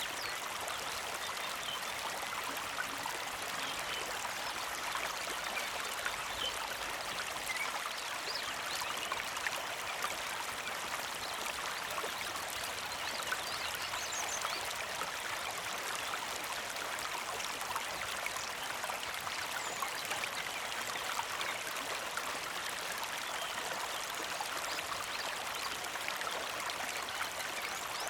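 Small creek flowing and trickling, a steady, even rush of water with no pauses.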